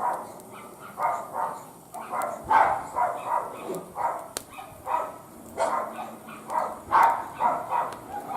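A dog barking over and over, about two to three barks a second, with short pauses between runs.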